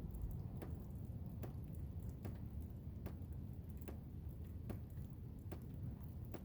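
Blizzard wind as a steady low rumble, with sharp taps about once a second over it.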